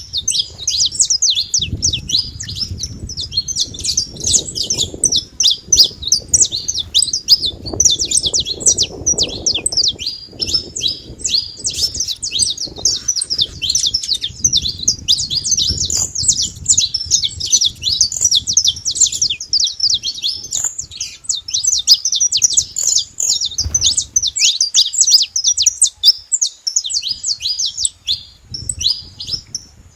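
Saffron finches singing, a rapid, unbroken run of high chirps and trills, with a faint low rumble underneath that comes and goes.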